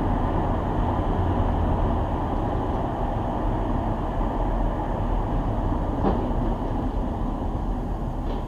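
Steady rumbling noise of a vehicle in motion, with two faint clicks, one about six seconds in and one near the end.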